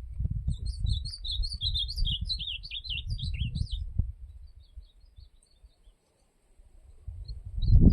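Ultramarine grosbeak (azulão) singing a fast, swooping warbled phrase for about four seconds, followed by a few fainter notes, over a low rumble on the microphone that comes back strongly near the end.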